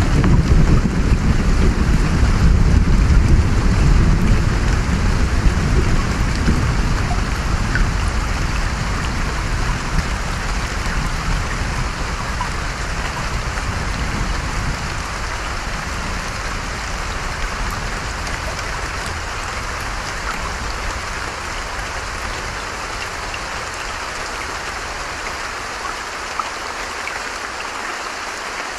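Steady hiss of rain and a running stream, with a low thunder rumble at the start that slowly dies away over the first half.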